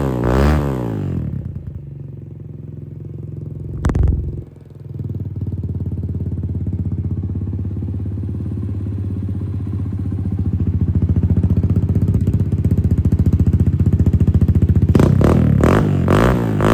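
Kawasaki KLX140RL's single-cylinder four-stroke engine through an FMF PowerCore 4.1 exhaust. The throttle is blipped in quick revs, then the engine settles to a steady idle with one short sharp blip about four seconds in. Near the end come several more quick revs.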